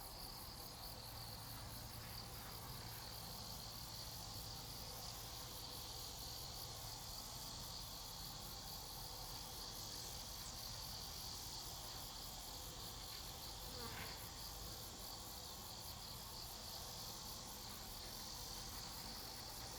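Grass insects such as crickets chirping in a steady, high, pulsing chorus.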